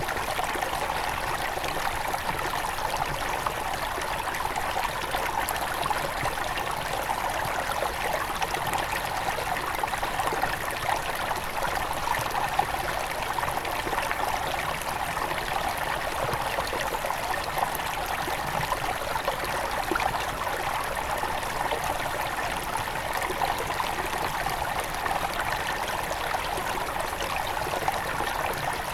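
Small mountain river near its source flowing and splashing over stones: a steady rush of water with many fine trickles and gurgles.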